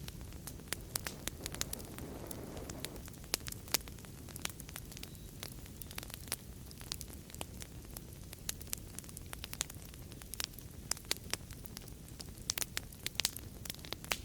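Wood fire burning in a fireplace: many sharp crackles and pops over a steady low rush of the flames, with a brief soft flaring whoosh about two seconds in.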